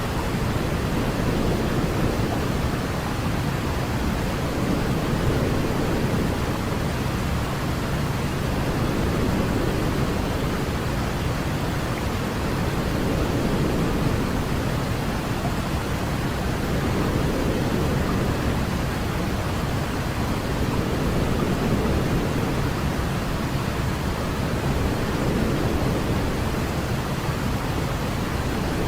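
Steady pink-noise-style white noise for baby sleep: a constant even hiss weighted toward the low end, with slow gentle swells in level every few seconds.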